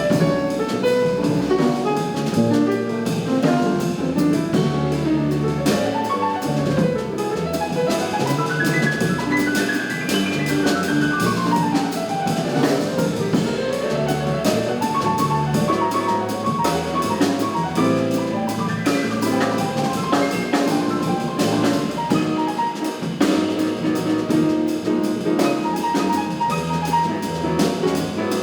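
Live jazz quartet of saxophone, piano, double bass and drum kit playing an up-tempo tune, with quick runs of notes sweeping down and back up in the middle.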